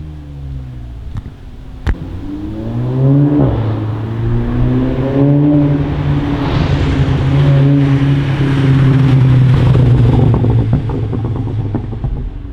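Tuned car with an E-Exhaust Silence 3.5-inch aftermarket exhaust accelerating hard, the engine note climbing in several steps as it shifts up through the gears. A single sharp pop comes about two seconds in, and crackles come on the overrun near the end.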